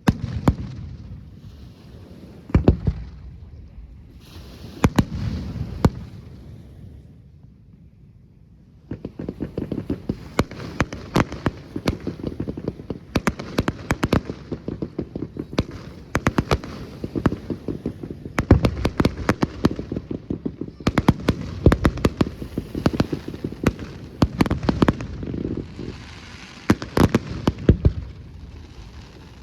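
Fireworks display: a few separate shell bursts with rolling echoes, then, after a short lull about a third of the way in, dense volleys of rapid crackling bangs.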